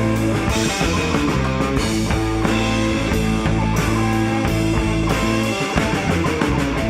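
Rock band playing an instrumental passage: electric guitar over bass and drum kit, the low end dropping out for a moment near the end.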